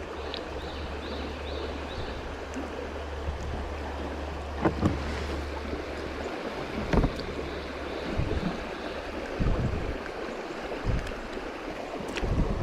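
Steady rush of moving river water around a sit-on-top kayak, with a few low knocks against the plastic hull.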